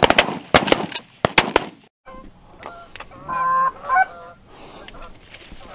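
A volley of about six shotgun shots fired in quick succession through the first second and a half. After a brief break, geese honk a few times.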